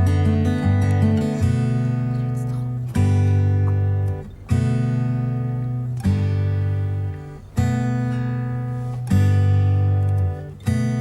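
Background music of acoustic guitar: a run of quick plucked notes, then strummed chords struck about every one and a half seconds, each left to ring and fade.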